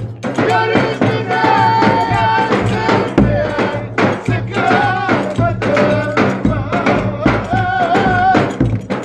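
Live village-wedding dance music: a wavering, ornamented melody line over a steady beat of drum and tambourine.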